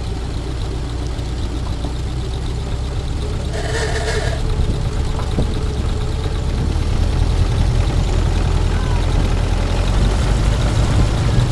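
1917 Ford Model T's four-cylinder side-valve engine running steadily as the car moves off at low speed, heard from the front seat, growing a little louder in the second half.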